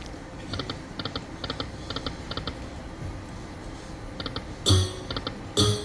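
Poker machine's electronic reel-spin sound effects: quick triple clicks repeating about twice a second, then after a short pause two louder knocks, each with a low thud.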